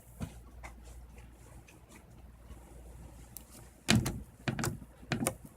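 Slime being squeezed and pressed, making sharp clicking and popping crackles. These start about four seconds in, after a near-quiet stretch with only a few faint ticks.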